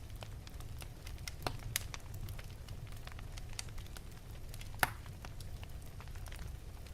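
Wood fire burning in an open fireplace: a steady low rumble with scattered sharp crackles and pops, the loudest pop a little before the end.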